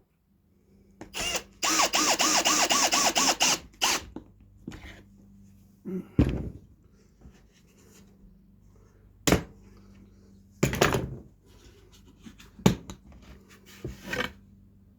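Power drill driving a 1¼-inch pocket-hole screw into wood for about two seconds, its motor whine wavering under load. Several separate knocks follow as the boards and clamp are handled.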